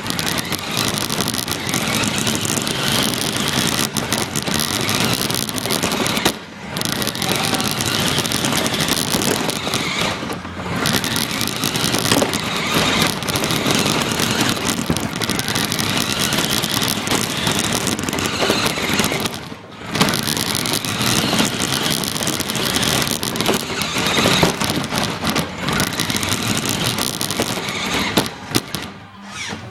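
RC car driving, heard from an iPod taped onto the car itself: a loud, rough rush of motor, drivetrain and tyre noise with the body rattling. It drops away briefly about four times.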